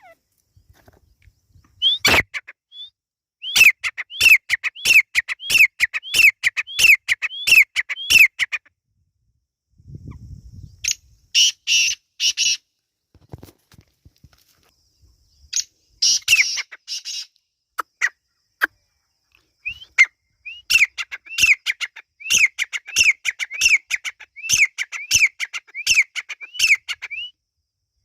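Francolin (teetar) calling: long runs of sharp, downslurred notes at about two a second, with a few harsh, raspy notes between the runs.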